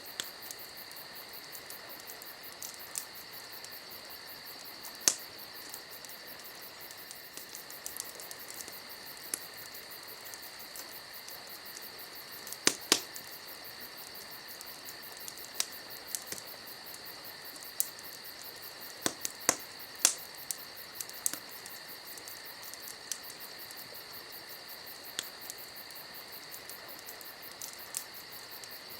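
Campfire crackling: irregular sharp pops and snaps, with a few louder pops about five, thirteen and twenty seconds in, over a steady high-pitched drone.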